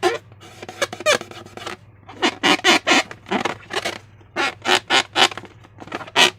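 Slime and rubber balloons being squeezed and worked by hand: clusters of short squelching, squeaking bursts, with a brief wavering squeak about a second in.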